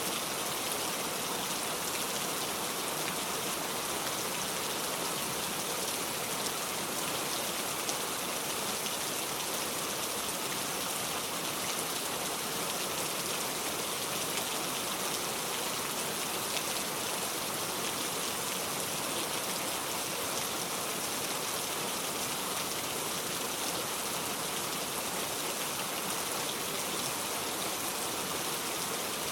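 Steady rain falling, an even, unbroken hiss of dense drops with no thunder or pauses.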